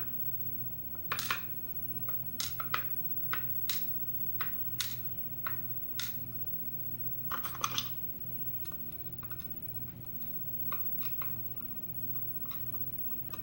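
Small brass lock pins and springs being tipped out of a lock cylinder, landing in scattered light metallic clicks and clinks. The clicks come thickest in the first eight seconds and thin out after.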